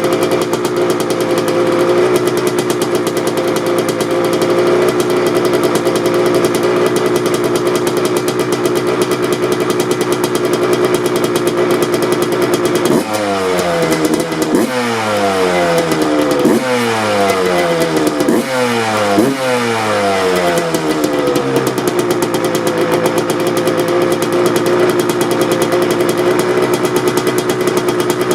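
Suzuki RM 125 single-cylinder two-stroke dirt bike engine with its stock exhaust idling steadily, then blipped about five times in quick succession around the middle, each rev rising sharply and falling back, before settling to idle again.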